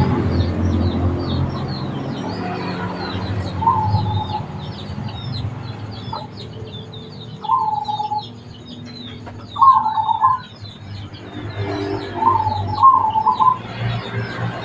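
Zebra dove (perkutut) cooing in four short phrases, the loudest about ten seconds in. Throughout, small birds chirp in many quick high notes, and a low drone fades away over the first few seconds.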